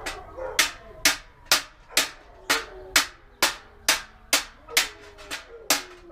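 A small hammer striking a steel truck body panel against a larger hammer held behind it as a dolly, knocking out dents. The sharp metallic blows come evenly at about two a second, each ringing briefly.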